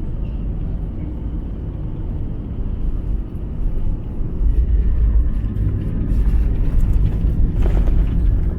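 Low, steady rumble inside the cabin of an Airbus A320 during its landing roll. It grows louder and deeper about four and a half seconds in, and there are brief rattles near the end.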